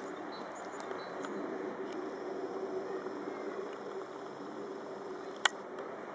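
Steady hum of Sprinter Light Train electric units idling at a station platform, with a single sharp click about five and a half seconds in.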